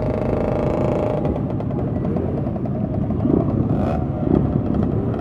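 Motorcycle engines running at parade pace with a dense low rumble; a steady engine tone stops about a second in, leaving a rougher, pulsing engine sound.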